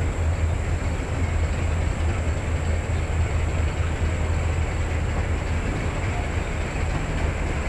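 Narrow-gauge train running steadily, with a constant low rumble and a wash of running noise.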